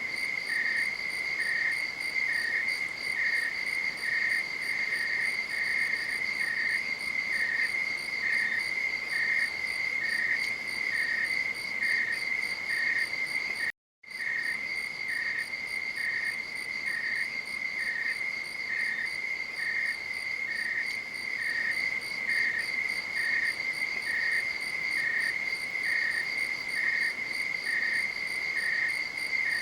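Night insects, crickets, calling together: one steady high trill with a second insect chirping in an even rhythm, a little more than once a second. The sound drops out completely for a split second about fourteen seconds in, then resumes.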